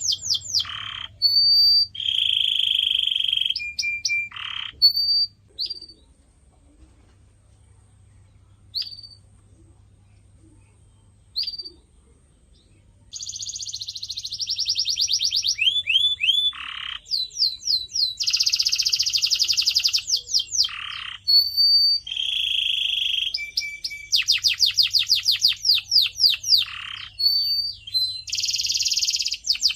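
Canary singing: fast trills, buzzy rolling phrases and falling whistled notes. The song breaks off for several seconds, with only a couple of single chirps, then starts again.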